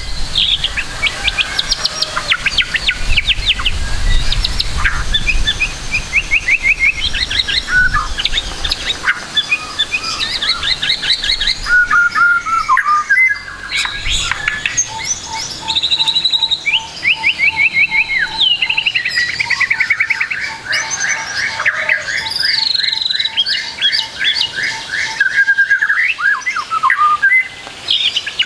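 White-rumped shama singing a fast, varied song of rapid trills, chirp series and whistled phrases, packed with the mimicked calls of other birds. Through the second half a steady series of short low notes repeats about three times a second beneath the song, and a low rumble sits under the first few seconds.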